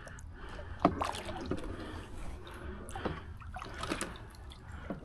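Paddle working in the water beside a solo canoe, with a few light knocks and splashes spread through the strokes.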